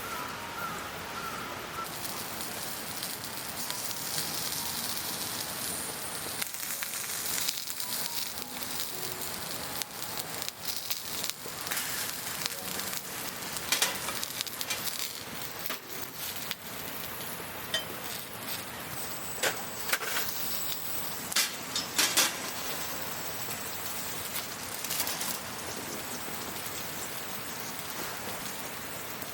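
Wood campfire crackling: a steady hiss with scattered sharp pops and snaps, thickest through the middle stretch.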